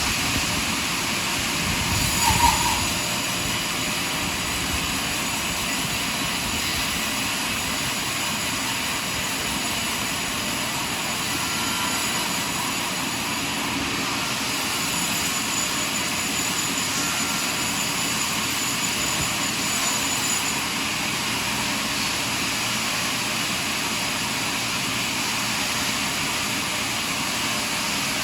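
Sawmill machinery running steadily, with one short, sharper sound about two seconds in.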